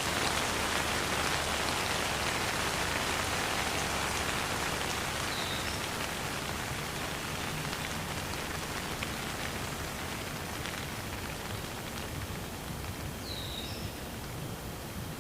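Steady rain falling, an even hiss of drops that slowly grows quieter. Two faint short chirps come through the rain, about five and thirteen seconds in.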